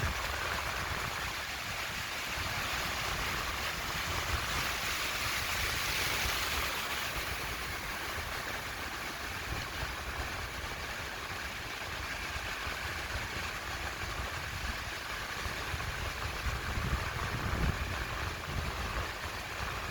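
Sea surf washing onto a beach: a steady rushing hiss that swells a few seconds in and eases off, over an uneven low rumble.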